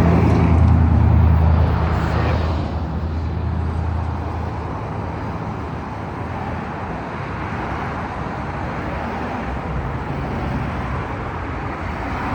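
A car engine running, loud at first and fading away over the first four seconds or so, then a steady outdoor background noise.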